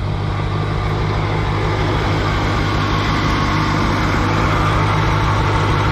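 Allis-Chalmers G tractor's small four-cylinder gasoline engine running steadily at a low, even speed.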